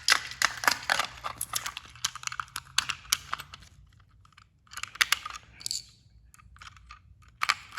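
Rapid plastic clicking and rattling from a battery-powered toy train engine being handled, with a faint steady hum for the first three seconds or so. It is quieter after that, with a few more clicks about five seconds in and near the end.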